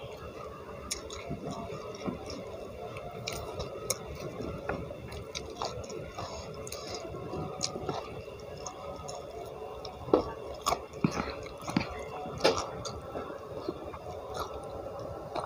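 Chewing a mouthful of rice and vegetables eaten by hand, with wet mouth sounds and scattered sharp crunches, the loudest a little after ten seconds in and again at about twelve and a half seconds.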